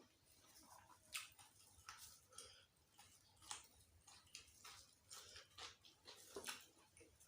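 Faint, close-miked chewing of a meal of kikil curry and raw leafy vegetables: irregular soft wet clicks and small crunches, one or two a second.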